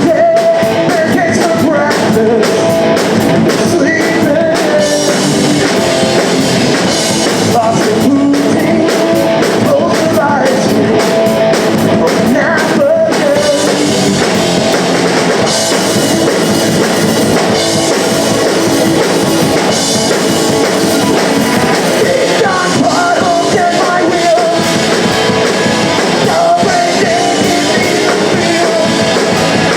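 Live punk rock band playing: distorted electric guitars, bass and drum kit, with singing over the top.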